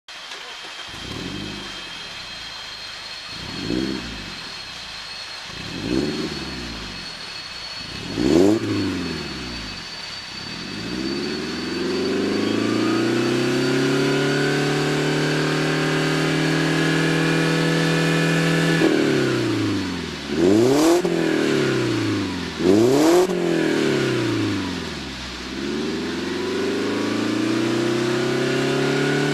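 Mazda3 sedan's 2.0-litre Skyactiv-X four-cylinder engine, heard through a Kakimoto Class KR aftermarket exhaust, being revved. There are four short throttle blips that rise and fall, then a slow climb to a high rev held for several seconds that drops suddenly. Two more sharp blips follow, then a rise to a held rev near the end.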